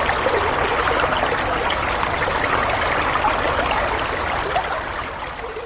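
Flowing water: a steady stream with fine trickling and bubbling, starting to fade out near the end.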